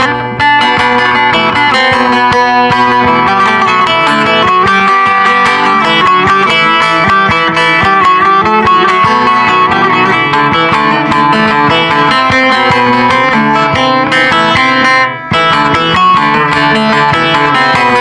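Bağlama (Turkish long-necked lute) playing a quick plucked folk melody of dense, rapidly picked notes, with brief breaks just after the start and about fifteen seconds in.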